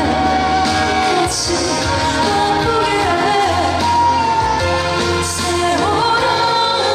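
A woman singing a Korean trot song live over loud amplified backing music with a steady bass line.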